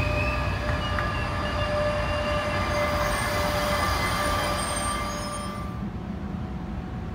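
Trenitalia Vivalto double-deck regional train moving slowly along the platform: a low rumble with several steady, high metallic squealing tones. About six seconds in it gives way to a quieter, steady background hiss.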